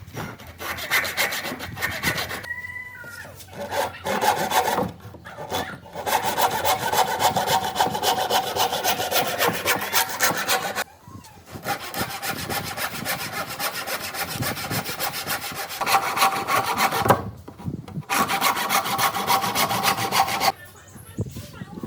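A tool cutting or abrading oak in several long passes of a few seconds each, broken by short pauses.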